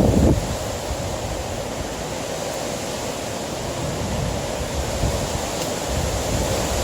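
Strong gusty wind hitting the microphone: a steady rushing noise with heavy low buffeting, strongest in a gust right at the start.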